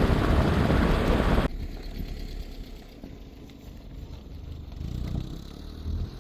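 Loud rushing noise cuts off suddenly about a second and a half in, leaving a quieter low engine-like rumble.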